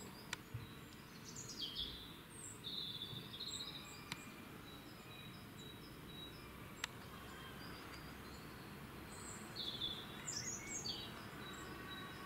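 Outdoor ambience with birds chirping in two short spells of high, quick notes over a steady background hiss, and three faint sharp clicks.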